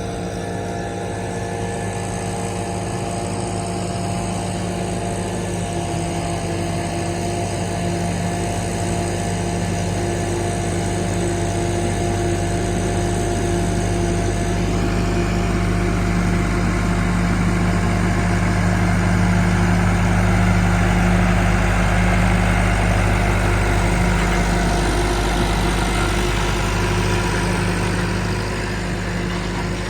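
Allis-Chalmers farm tractor engine running steadily while it pulls a yard rake, growing louder through the first two-thirds and easing off near the end.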